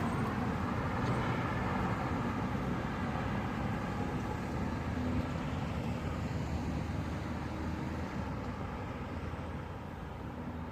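A motor vehicle going by on the road, a steady rushing noise that slowly fades away.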